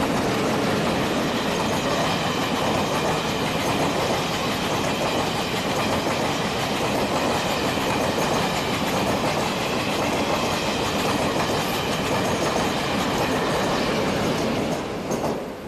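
A train running past on the Taiwan Railway Western Trunk Line, with a steady rumble and wheel clatter over the rail joints. It falls away quickly near the end as the train clears.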